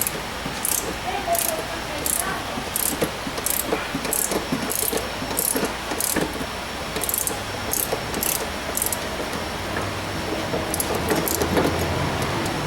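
Hand ratchet wrench being worked back and forth, about one and a half ratcheting strokes a second, while undoing rear suspension fasteners. The strokes stop about nine seconds in, and a few scattered metal clicks follow.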